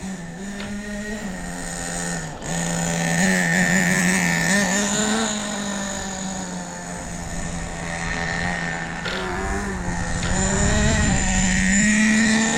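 Small single-cylinder two-stroke nitro engine, a Hot Bodies .18, running in an RC car. Its pitch wavers up and down as the throttle changes, and it gets louder about three seconds in and again near the end.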